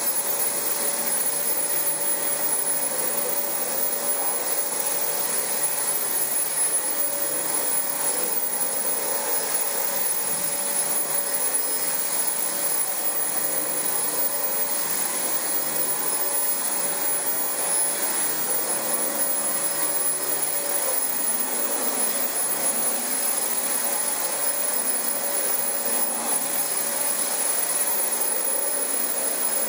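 Dyson DC25 ball upright vacuum cleaner running steadily over carpet: an even motor rush with a thin high whine over it.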